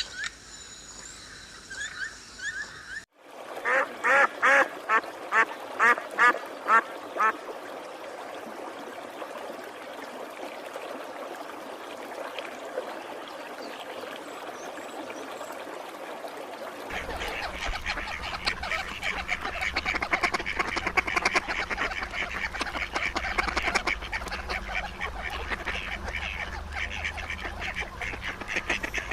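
Birds calling. Brief high chirping at first, then after a sudden cut a run of about ten loud repeated calls, then many birds calling over one another in a dense chatter that grows louder with a low hum underneath about two-thirds of the way through.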